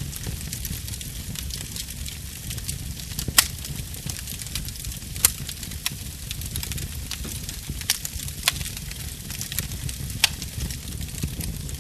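Wood fire burning in a fireplace: a steady low rumble of flames with a constant fine crackle, and a few sharper pops from the burning logs scattered through.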